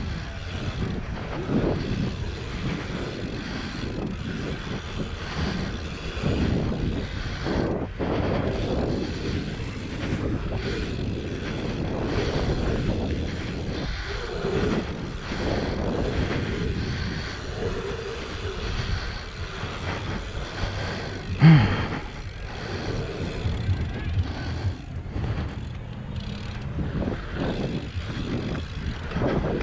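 BMX bike riding a dirt track, heard from a helmet-mounted action camera: wind buffeting the microphone and tyres rumbling over dirt. A brief, louder sound with a falling pitch comes about two-thirds of the way through.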